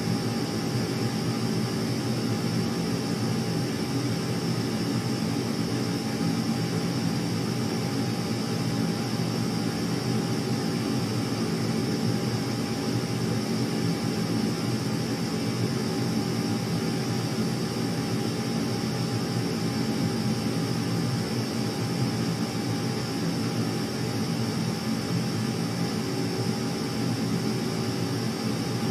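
Aircraft engines droning steadily: a low hum with a constant high whine above it, with no change in pitch or loudness.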